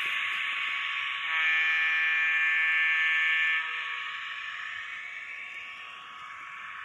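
Sound decoder in a Broadway Limited N scale GG1 model locomotive, played through its tiny speaker. It gives a held horn blast of a bit over two seconds that starts about a second in, over a steady buzzing hiss from the running model.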